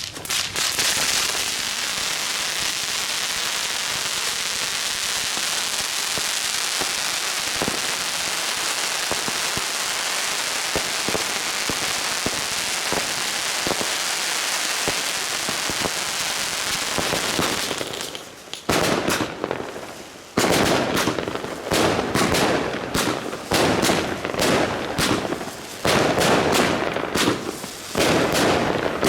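Weco 'Bumble Bees' 19-shot 30 mm firework cake going off. For about eighteen seconds there is a steady loud hiss of burning effects with scattered pops. Then comes a rapid, irregular string of launches and loud bursts up to the end.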